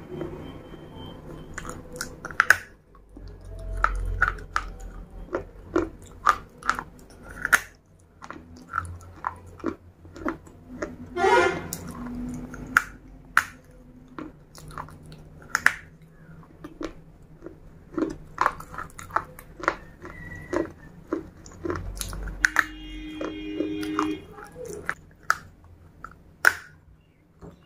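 Close-miked crunching and chewing as a person bites off and chews pieces of a baked terracotta clay cup. It comes as sharp, irregular crunches, about one or two a second, with dull thuds under some of them.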